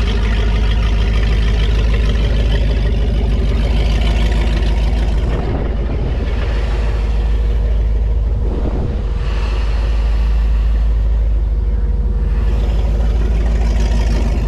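2002 Donzi Classic 22 boat engine running steadily, dipping slightly in loudness about halfway through before coming back up.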